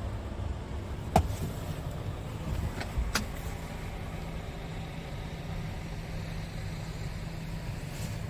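Scania R410 tractor unit's diesel engine idling steadily, with a sharp click about a second in and two fainter clicks around three seconds in.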